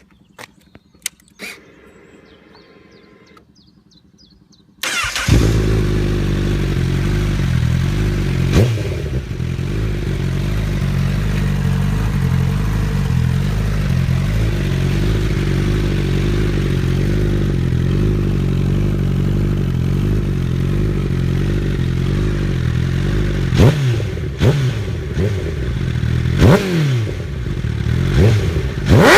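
Honda CBR1000RR SP's inline-four through a full Akrapovič exhaust. A few clicks and a brief faint whirr, then the engine fires about five seconds in and idles steadily. There is a short throttle blip soon after, and several quick revs near the end.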